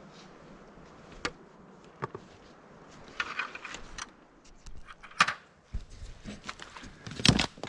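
Scattered clicks, crackles and rustles, with a denser patch about three seconds in and the loudest crackle near the end.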